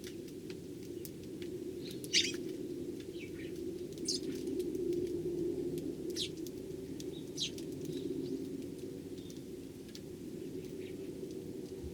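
Eurasian tree sparrows chirping: short, separate chirps every second or two, the loudest about two seconds in, over a low steady hum.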